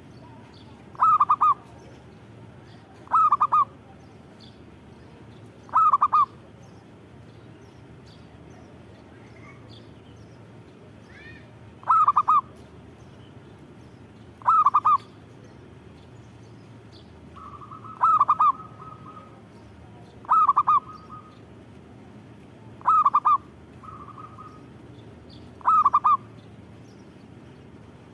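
Zebra dove (perkutut) cooing: short bursts of several quick notes, repeated nine times at irregular gaps of two to six seconds.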